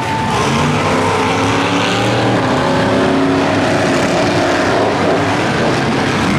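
Monster truck engine running hard and revving, its pitch rising and falling as the throttle changes.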